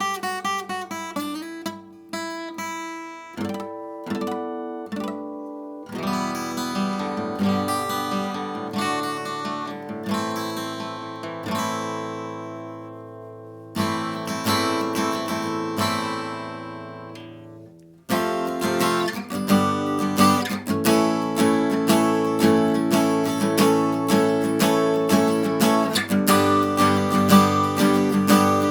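Vintage Japanese steel-string acoustic guitar being played: single picked notes at first, then ringing chords, and from about two-thirds of the way in, louder, steady strumming.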